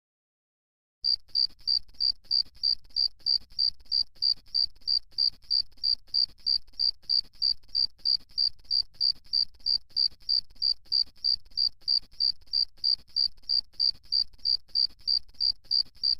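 Insect chirping in a steady rhythm, about three high chirps a second, starting about a second in.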